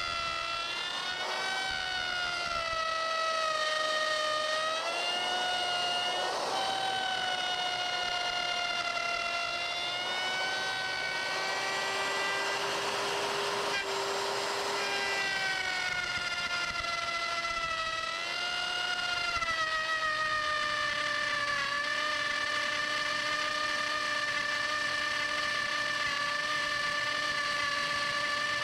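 Electric wood router running and cutting, its high whine sagging and recovering in pitch as the bit takes load and eases off. About halfway through there is a rougher, noisier stretch of cutting.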